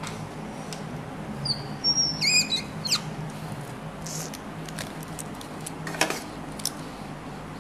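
A few short, high bird chirps with quick pitch glides, clustered about two seconds in, over a steady low hum and a few faint clicks.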